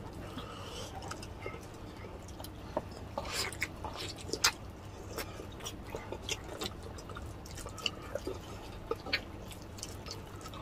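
Close-up eating sounds of braised pork hock (humba) eaten by hand with rice: chewing and lip smacking, with scattered short wet clicks and ticks. A low steady hum runs underneath.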